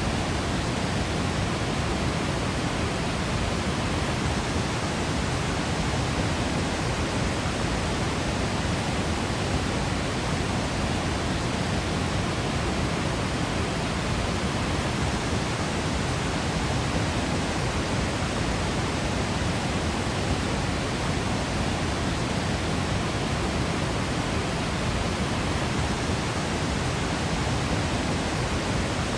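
Waterfall in Yosemite, its water pouring and crashing in a steady, unbroken rush with a deep low rumble.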